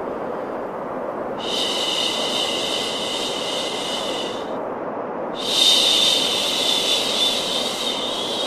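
Steady white noise for baby sleep: a constant rushing hiss. A brighter, higher hiss layer comes in about a second and a half in, drops out briefly around the middle, and returns a little louder.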